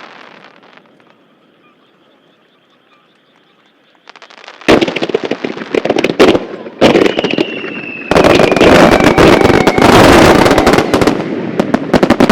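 Starmine fireworks barrage: after a few quiet seconds, a loud, dense run of rapid bangs and crackles starts about four and a half seconds in and keeps going, with a falling whistle partway through.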